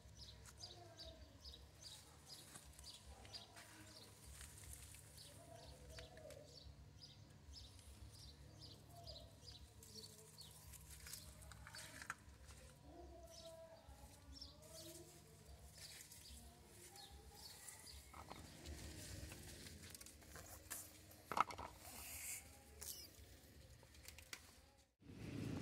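Faint outdoor ambience: a bird chirping over and over, about two or three chirps a second, with faint distant animal calls, and a few soft handling clicks near the end.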